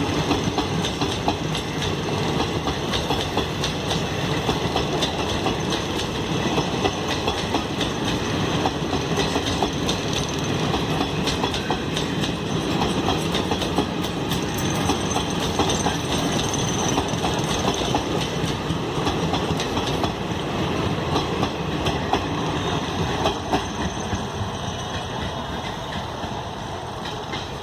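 Indian Railways express passenger train running past at speed, its wheels clattering steadily over the rail joints; the sound fades over the last few seconds.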